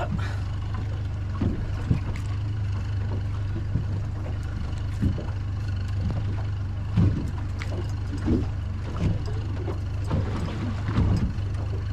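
Small fishing boat at sea in rough weather: a steady low hum with irregular knocks and thumps scattered through it.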